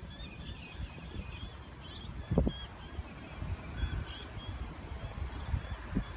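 Birds calling in quick, repeated short chirps, with a low background rumble and a single thump about two and a half seconds in.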